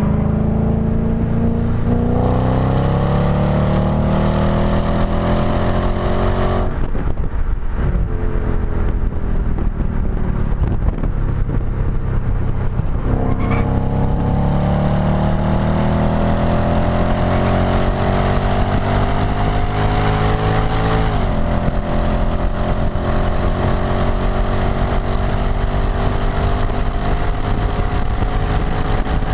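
Audi B7 S4's 4.2-litre V8 heard close to the tailpipe of its STaSIS exhaust, under hard acceleration with the pitch climbing. It cuts off abruptly about seven seconds in, runs lower and steadier, then pulls again from about thirteen seconds. There is a quick drop in pitch around twenty-one seconds, after which it climbs on and falls away right at the end.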